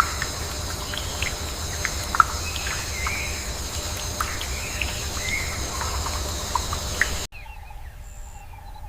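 Nature ambience: a steady, high-pitched insect drone with scattered short bird chirps and calls over a low rumble. It cuts off abruptly about seven seconds in, leaving a much quieter ambience with a few faint calls.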